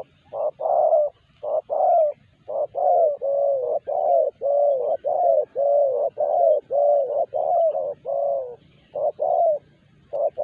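Spotted dove (terkukur) cooing: a long, rhythmic run of short, low coos, about two a second, with a few brief pauses.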